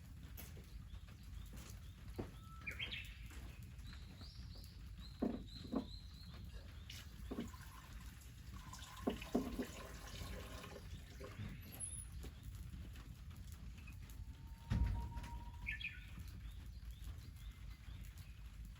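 Small birds chirping now and then, with scattered sharp clicks and knocks, the loudest a thump about fifteen seconds in, over a steady low rumble.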